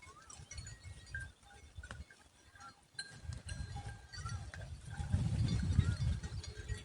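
Birds calling: short whistled notes that rise and fall, repeated about once a second, over a low rumble that grows louder in the second half.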